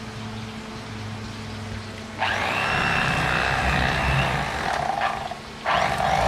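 Electric fillet knife motor running as it cuts through fish, with a steady high buzz. It switches on about two seconds in, stops for about a second near the end, and starts again.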